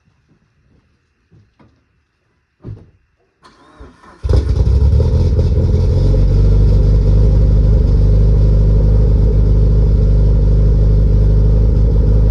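A few faint clicks and a thump, then a Mitsubishi Evo 8's turbocharged 4G63 inline-four is cranked and fires about four seconds in. It settles straight into a loud, steady idle through a Buschurs 3-inch catback exhaust.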